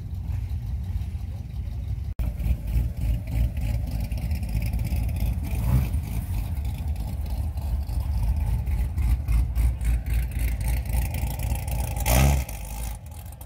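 Car engines rumbling at low speed as cars drive slowly out of a lot, with a brief, louder rev near the end from a C7 Corvette's V8 as it pulls away.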